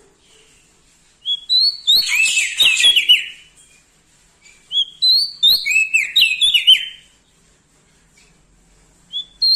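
Prenjak daun songbird singing: two quick phrases of high, stepped whistled notes, each about two seconds long, with a third phrase starting near the end.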